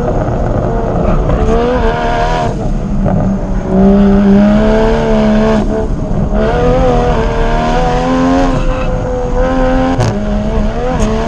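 Car engine heard from inside the cabin during a hard track lap. It revs up through the gears, and the pitch drops abruptly at each quick gear change, several times over.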